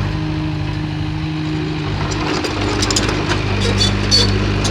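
Diesel engine of heavy earthmoving machinery running steadily, with scattered metallic clanks in the second half.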